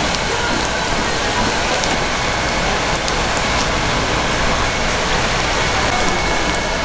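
Radish cakes sizzling as they fry in oil: a steady sizzle with scattered small crackles.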